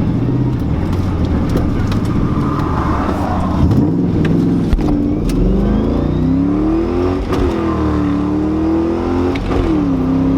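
Ford Mustang's 4.6-litre V8 accelerating hard, its pitch climbing through the revs and dropping twice, about 7 and 9 seconds in, at gear changes.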